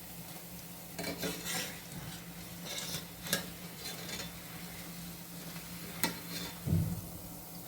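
Pakodas frying in hot oil with a steady sizzle, while a utensil stirs and turns them, knocking against the pan a few times.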